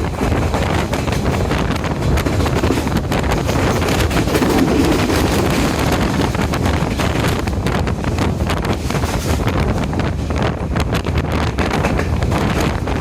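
Diesel intercity express train running at speed: a steady rumble of wheels on track with many small clicks and rattles, and wind buffeting the microphone.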